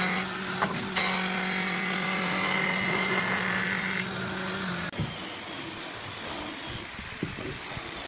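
Electric power tool motor running at a steady pitch with a few sharp clicks early on, then cutting off about five seconds in; quieter shop noise follows.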